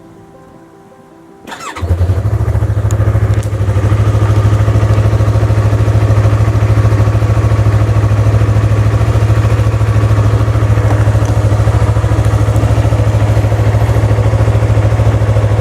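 Yamaha MT-03 motorcycle engine starting about a second and a half in and then idling steadily.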